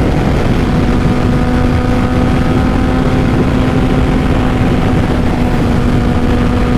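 A Honda CBR600RR sport bike's inline-four engine, fitted with a Two Brothers full exhaust, running at a steady cruising speed with no change in revs. Heavy wind rush over the rider runs through it.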